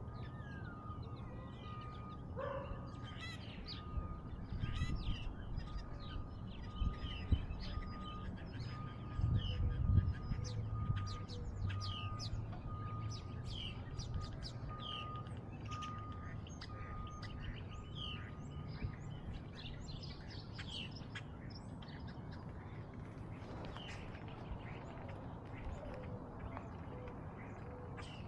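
Songbirds chirping outdoors, many short high calls overlapping all through. Low rumbling noise swells a few times, loudest about a third of the way in, and a thin steady whine stops about two-thirds of the way in.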